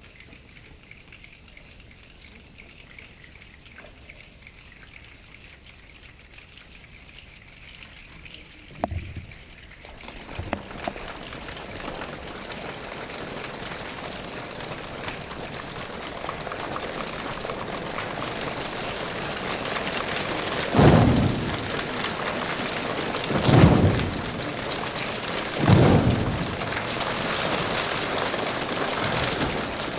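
A choir making a rainstorm with hands and feet: a faint hiss of patter swells into a loud, steady rain-like rush. In the second half it is broken by four heavy low thumps like thunder, about two and a half seconds apart.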